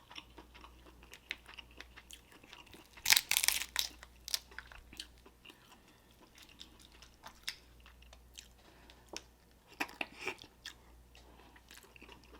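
Close-up eating of Dungeness crab: chewing and biting, with scattered clicks and crunches of shell. Louder noisy bursts come about three seconds in and again near ten seconds.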